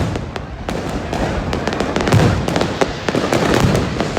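Fireworks going off in a dense, irregular volley of sharp cracks and pops over a low rumble.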